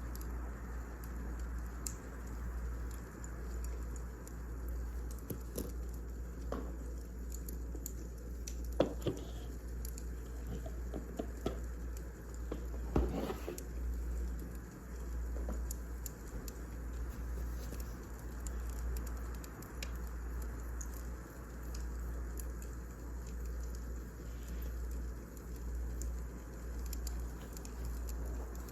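Wood fire crackling in a fireplace: scattered small snaps with a few louder pops, over a steady low hum.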